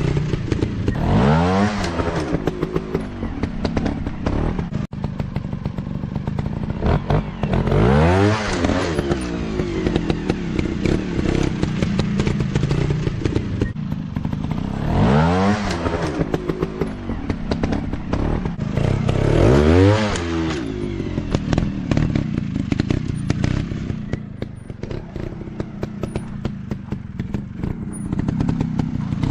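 Dirt bike engines revving up and dropping back four times, with the engine's pitch rising and falling each time and a steady rattle of clicks and knocks underneath.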